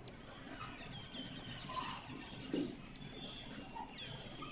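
Small birds chirping faintly in the background, short high falling chirps repeated in little clusters.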